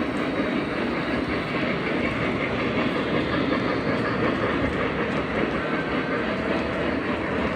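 Model train running on a layout's track: a steady rumble and clatter of wheels on rail.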